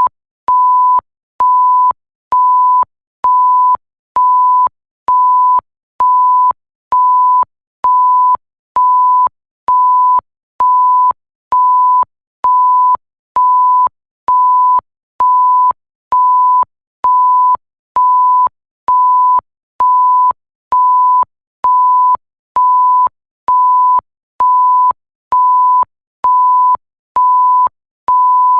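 Electronic censor bleep: a single pure tone near 1 kHz, sounded in even half-second beeps about once a second, over and over.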